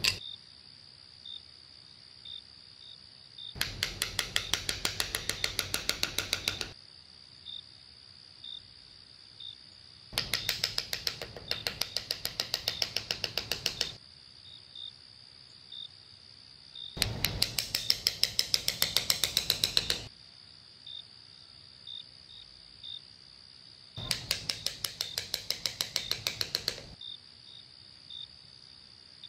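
Night insect ambience of crickets: a steady high trill with soft chirps repeating less than a second apart. Four times it is broken by a burst of about three seconds of rapid, loud pulsing, roughly ten pulses a second.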